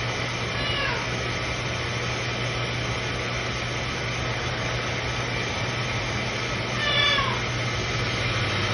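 Macaw giving two short calls that slide down in pitch, one about half a second in and one about seven seconds in, over a steady low hum.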